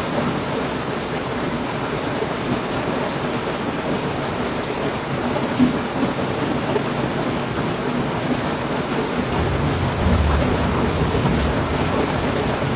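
Heavy rain falling steadily in a dense even hiss. A low rumble of thunder builds in about three quarters of the way through.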